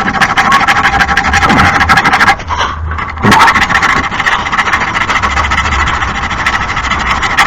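Lawn mower blade being sharpened: a continuous harsh rasping of metal being ground or filed, broken off once for under a second about two and a half seconds in.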